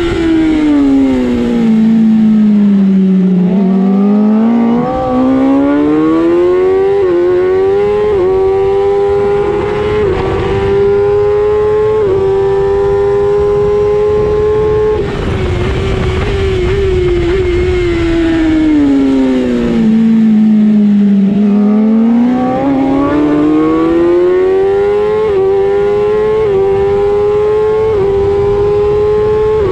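Race motorcycle engine heard from on board at racing speed, with wind rushing past. The revs fall as it slows into a corner, then climb again through a string of quick upshifts to a steady full-throttle run. About halfway through the throttle shuts off suddenly, the revs drop away for the next corner, and it accelerates up through the gears once more.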